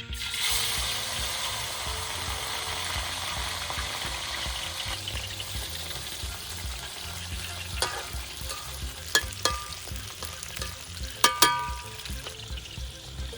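Small fish frying in hot oil: a loud sizzle that starts suddenly, as if the fish have just gone into the oil, then eases a little. In the second half a metal utensil knocks against the pan several times, with ringing clanks.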